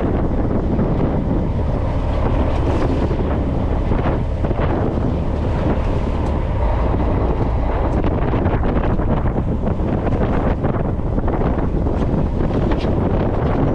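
Wind buffeting the microphone over the steady rush of a fishing boat and the sea around it, with scattered short splashes and knocks.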